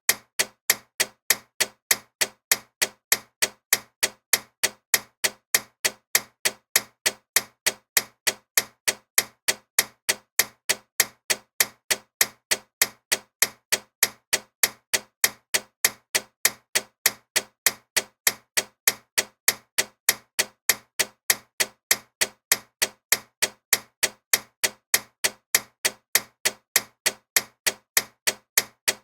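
Loud clock ticking steadily at about two ticks a second, each tick a sharp click.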